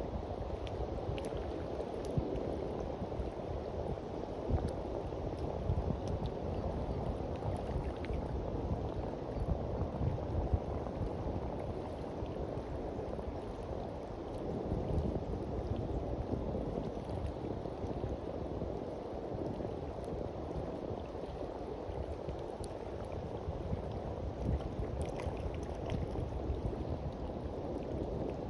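Gentle sea waves washing onto a beach: a steady low rush of surf.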